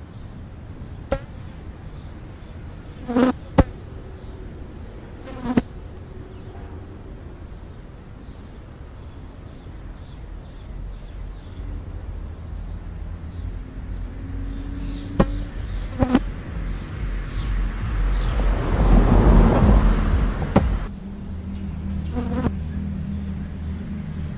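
Insect buzzing near the microphone over a steady low hum, broken by a few sharp knocks. About three-quarters of the way through, a loud rushing noise builds and then cuts off suddenly.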